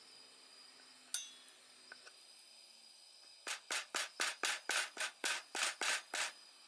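A quick run of about a dozen rasping back-and-forth strokes, roughly four a second, as of something being rubbed or sawn, after a single sharp click about a second in.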